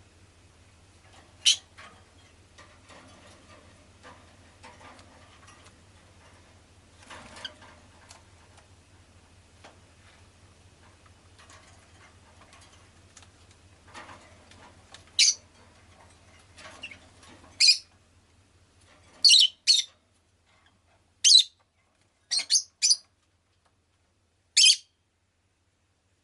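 Rosy-faced lovebird giving short, sharp, high chirps, one at a time or in quick pairs, a second or two apart and more frequent in the second half.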